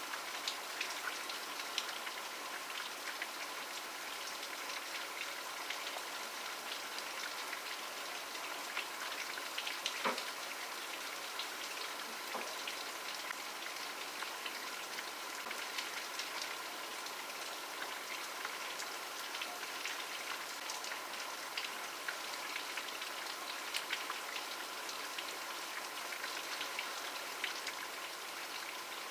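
Steady rain falling, with many individual drops striking close by in sharp little ticks. One louder drop lands about ten seconds in.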